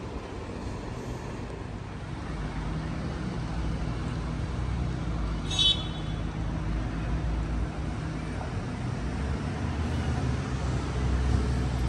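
Electric double-deck suburban train approaching and running past on the tracks, a steady low hum and rumble that grows louder from about two seconds in. A brief high squeal is heard about halfway through.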